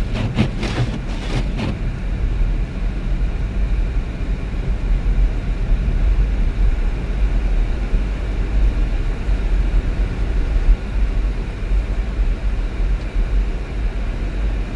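Car driving, heard from inside the cabin: a steady low rumble of engine and tyre-on-road noise.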